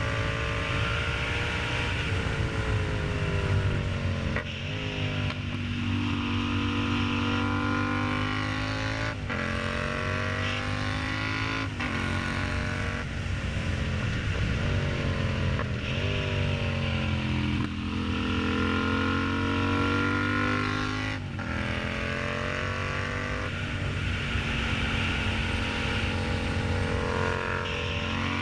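Yamaha MT-07 parallel-twin engine through an aftermarket exhaust, pulling under acceleration while riding: the engine note climbs and drops back at each gear change, several times over.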